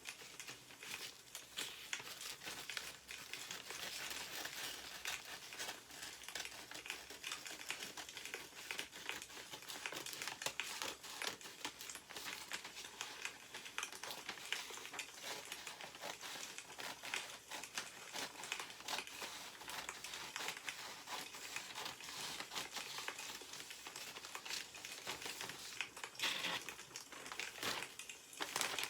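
Newspaper paper rustling and crinkling as it is handled, over a continuous dense crackle of small clicks from a wood fire.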